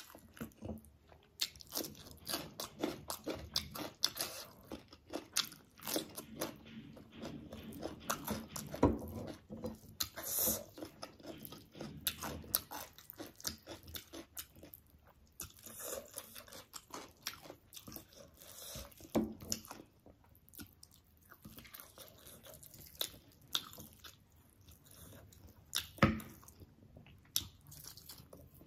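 Close-miked eating sounds: chewing and biting of rice and chicken curry eaten by hand. It is a dense run of small clicks, with a couple of louder, sharper ones about nine seconds in and near the end.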